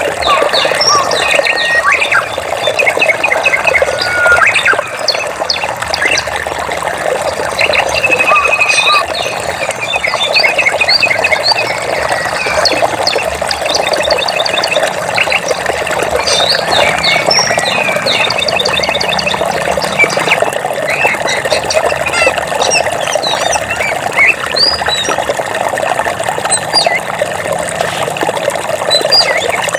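Steady rushing of flowing water, with many birds chirping, trilling and whistling over it throughout.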